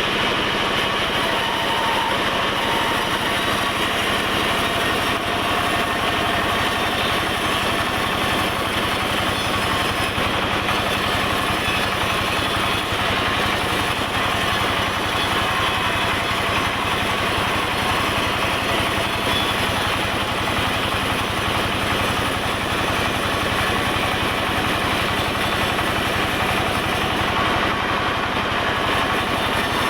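Sawmill machinery running steadily, making an even, unbroken mechanical noise at a constant loudness.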